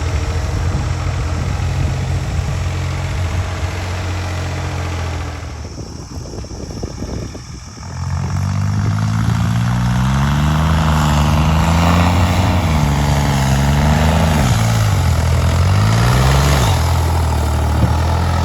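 New Holland 3630 tractor engine running steadily, easing off and quietening for a couple of seconds, then revving back up louder. Its pitch rises and wavers as the load changes, dipping once more near the end.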